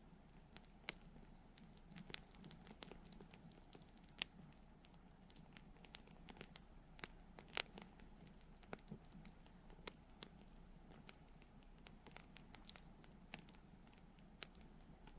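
Wood campfire crackling and popping: quiet, irregular sharp snaps, a few louder pops about four and seven and a half seconds in.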